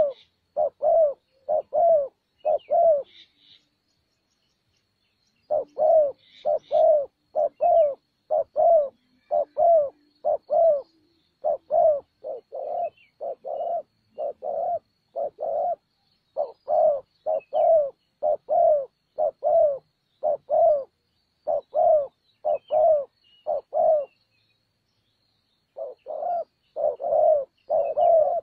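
Spotted dove cooing: a long run of short, low coos at about two a second, breaking off twice for a couple of seconds. Faint high chirps of small birds sound above it.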